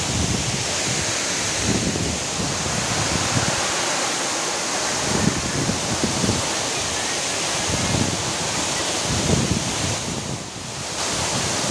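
Steady rush of a waterfall, with uneven low rumbles of wind on the microphone. The sound dips briefly about ten seconds in.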